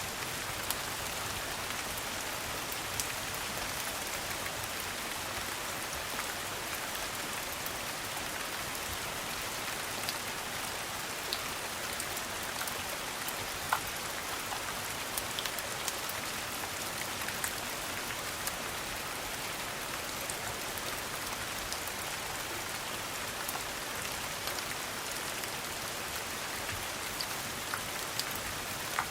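Steady rain, an even hiss of falling drops, with scattered sharp clicks and pops here and there.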